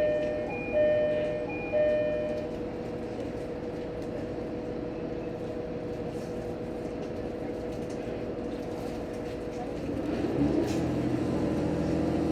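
A chime rings three times, about a second apart, over the steady hum of an H100 diesel-electric railcar standing at a platform. About ten seconds in, the diesel engine rises in power and the train starts to pull away.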